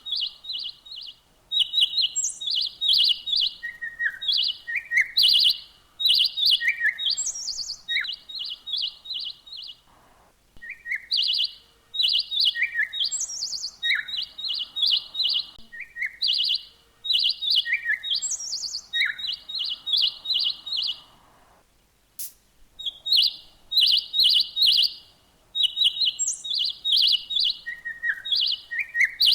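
Songbirds chirping: phrases of quick, high chirps repeated over and over, with short downward-sliding notes mixed in and brief pauses twice.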